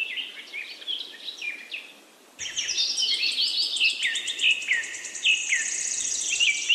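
Birdsong: many birds chirping in short falling notes. A little over two seconds in it cuts to a louder stretch where a fast, high trill runs on over the chirping.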